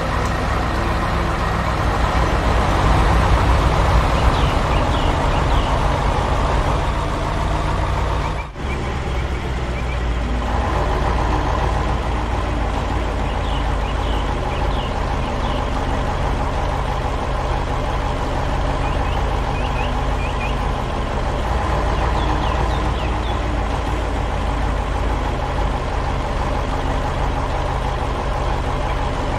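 Heavy machinery engine running steadily with a deep, even hum, as a construction-vehicle sound effect. The sound drops out briefly about eight seconds in, then carries on.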